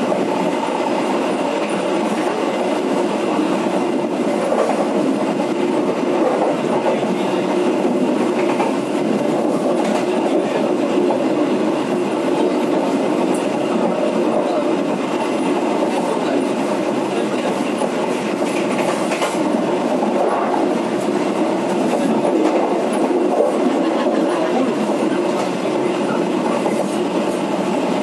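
Penataran local passenger train running along the track, heard from the back of its last coach: a steady rumble of wheels on rails with a few faint clicks scattered through it.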